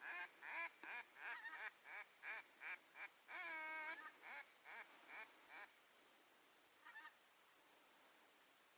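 Duck quacking: a rapid series of short quacks, about three a second, tapering off by about six seconds in, with one longer drawn-out quack near four seconds and a faint one near seven seconds.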